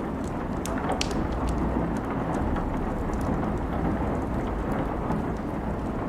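Steady rain with a deep low rumble, over which a wood fire crackles in scattered sharp pops, the loudest about a second in.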